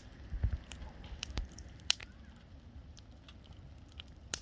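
Bonfire crackling: burning wood giving irregular sharp pops and snaps, the sharpest about two seconds in.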